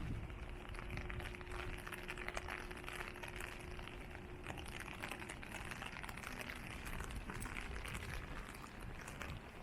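Rain falling on wet city pavement: a steady hiss full of small drop ticks. A low steady hum is heard alongside it and stops about halfway through.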